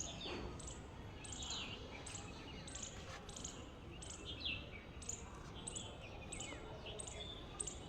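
Small birds chirping outdoors: a short, high, falling chirp repeated roughly every half second to second, with a few lower twittering calls among them, over faint steady background noise.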